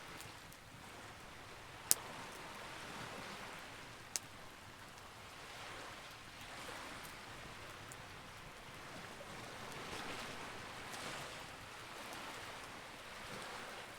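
Campfire burning: a faint, steady crackle and hiss, with a sharp pop about two seconds in and a smaller one about four seconds in.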